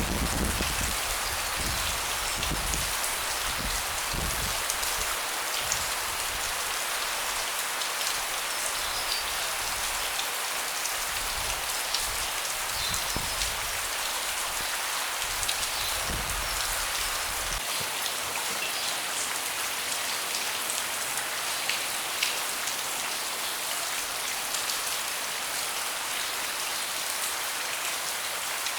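Steady rain falling on a deck, with a dense hiss and scattered individual drops ticking. A low gusty rumble comes and goes in the first part and cuts off about two-thirds of the way through.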